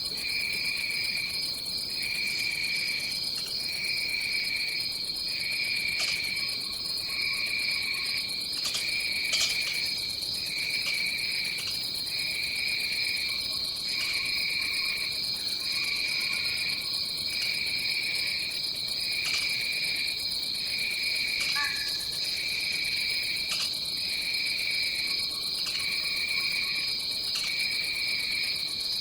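Rainforest insect chorus: a steady high trill, with a lower pulsing call that starts and stops every second or two, and a few brief chirps scattered through.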